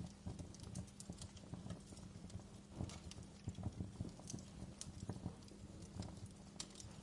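Wood fire in a fireplace crackling, with many irregular sharp pops and snaps over a low steady rumble.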